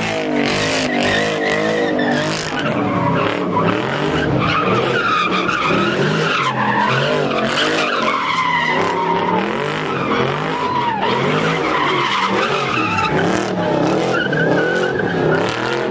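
Car engines revving hard with tyres squealing and screeching as cars spin donuts and drift. The squeal and the revs rise and fall the whole time.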